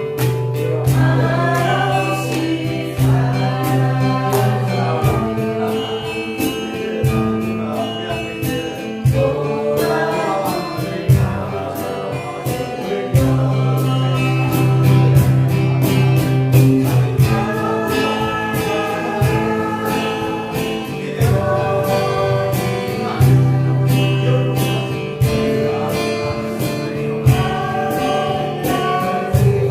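Acoustic guitars strummed in a steady rhythm while several voices sing a song together.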